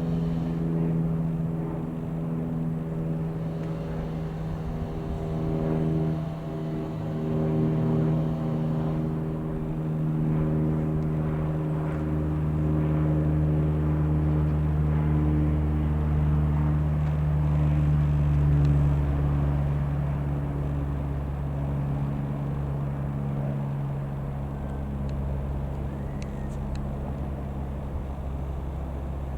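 Piper PA-28-180 Cherokee's four-cylinder Lycoming O-360 piston engine and propeller running steadily, with small shifts in pitch.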